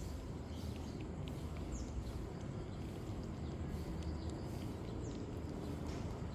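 Outdoor background noise: a steady low rumble with a few short, high, falling chirps and faint ticks.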